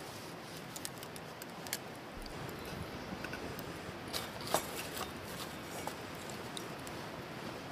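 Scattered faint clicks and light taps over a steady low hiss.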